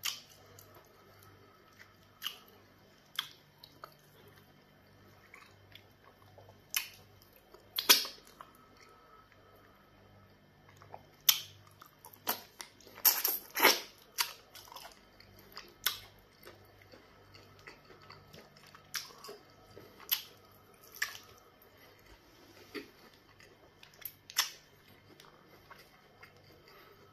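Close-up mouth sounds of eating with the hands: scattered wet smacks and chewing of pounded yam fufu in black soup, with a cluster of louder bites and smacks about halfway through as a piece of chicken is bitten and torn.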